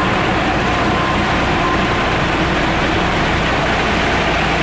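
Diesel passenger train's engine and running gear rumbling steadily, heard from inside the carriage at an open window.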